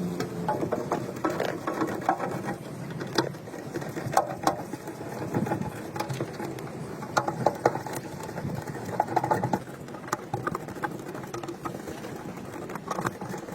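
Irregular small mechanical clicks and rattles.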